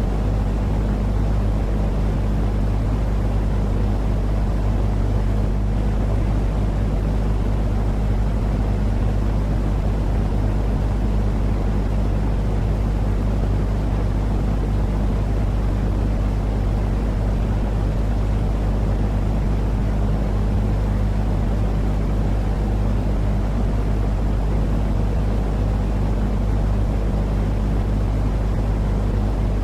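Steady, unchanging sleep-noise drone: a deep low hum with a softer hiss above it, like a motor or engine running at constant speed.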